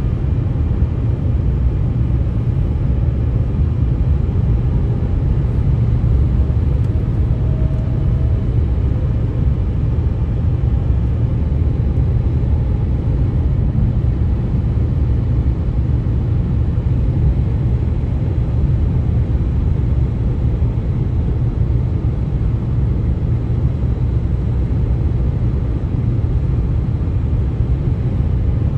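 Steady low rumble of highway road and traffic noise, with a faint thin tone rising above it about six to eight seconds in.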